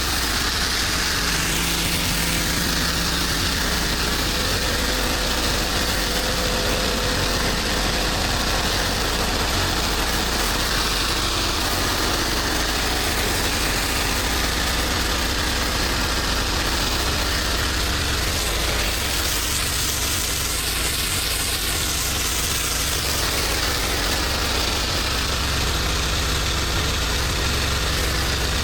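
Pressure washer engine running steadily, with a constant hiss over it.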